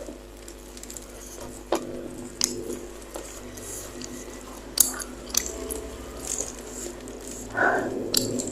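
Close-miked eating sounds: a spoon clicking against a bowl several times, with wet chewing and slurping of meatballs in soup.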